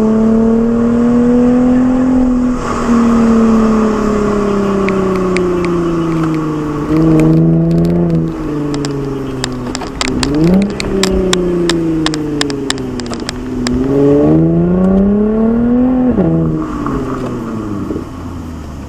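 Lexus IS with an aftermarket Fi Exhaust, its engine revving up and down through gear changes on a drive. Around the middle the revs fall with a run of exhaust crackles. There is a sharp rev rise about ten seconds in, and a climb that drops off suddenly near sixteen seconds, like an upshift. The sound fades toward the end.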